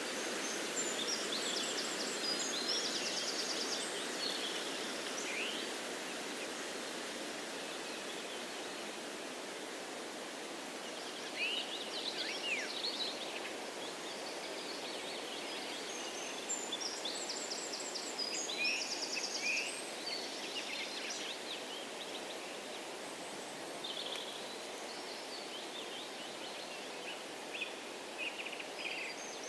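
A steady rush of wind through trees, with songbirds singing short, repeated chirping phrases in several bouts, separated by pauses of a few seconds.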